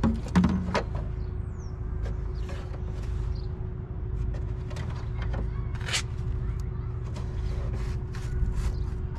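Scattered light clicks and knocks of tools and parts being handled during fan and fan clutch removal, over a steady low rumble and a faint steady hum.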